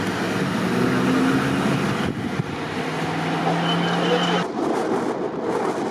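Strong storm wind blowing hard, with gusts buffeting the microphone and a low steady hum that stops about four and a half seconds in.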